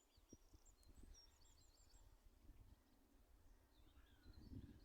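Near silence outdoors, with faint small-bird chirps, a few quick ones in the first second or so and more around three seconds in, and a faint low rustle near the end.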